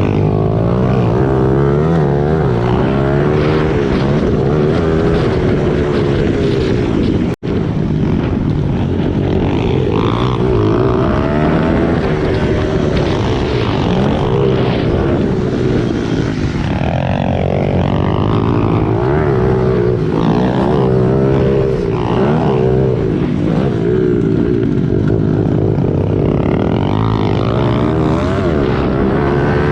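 Small single-cylinder four-stroke pit bike engines revving up and down as the bikes are ridden hard around a track, the pitch rising and falling repeatedly with throttle and gear changes. The sound breaks off for an instant about seven seconds in.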